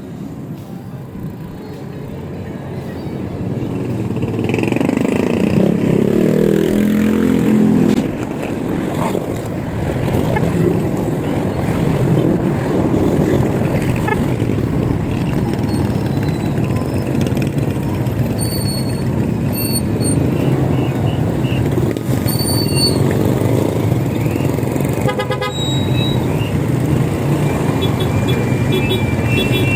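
Street traffic heard from a moving e-bike: steady road rumble and wind noise, with a nearby motor vehicle rising in pitch and loudness from about four seconds in and breaking off about eight seconds in.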